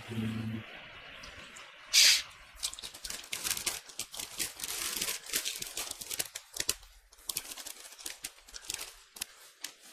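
Rustling and crinkling handling noise: irregular small crackles and clicks, with one loud short rustle about two seconds in.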